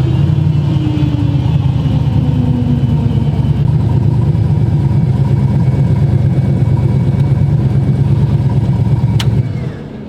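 Twin-turbo 4x4 truck running hard under full throttle in a street pull: a steady, loud, deep run that drops away suddenly near the end as the driver lets off.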